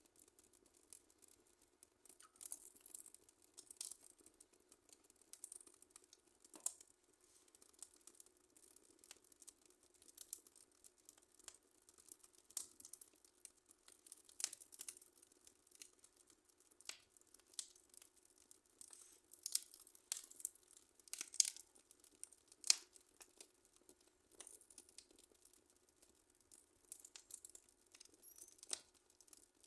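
Wood fire crackling in a fireplace: faint, irregular pops and snaps, a few sharper ones past the middle, over a faint steady hum.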